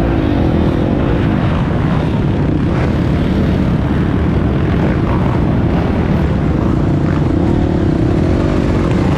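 Enduro motorcycle engine heard from an on-board action camera, its pitch rising and falling as the rider works the throttle, over a heavy rumble of wind and ground noise.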